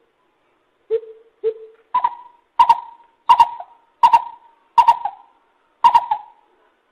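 Lesser coucal calling: a series of hollow hoots, two lower ones and then about six louder, higher-pitched ones, evenly spaced, a little more than one a second.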